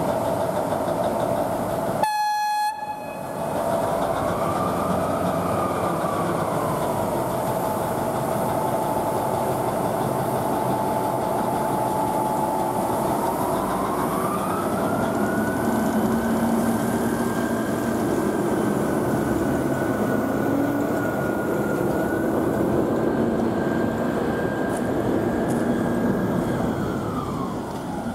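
A rail vehicle running, a steady rumble with a whine on top. The whine rises and falls, climbs higher about halfway through and holds, then drops away near the end. The sound breaks off briefly about two seconds in.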